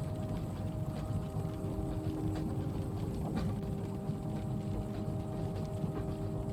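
Interior ambience of a running train carriage: a steady low rumble with a constant hum, a faint hiss of light rain on the window, and a few soft clicks.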